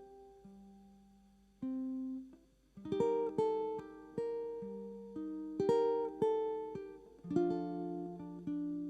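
Solo ukulele in a dropped-fourth tuning, its low G string tuned down to F, playing plucked single notes of a gentle melody. A few notes are left ringing and fading at first, then a busier run of plucked notes starts about three seconds in.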